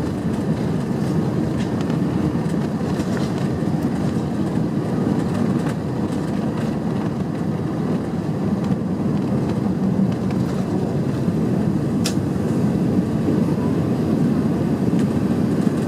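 Steady low rumble inside the cabin of an Airbus A380-800 rolling on the ground, growing slightly louder towards the end. A single sharp click comes about twelve seconds in.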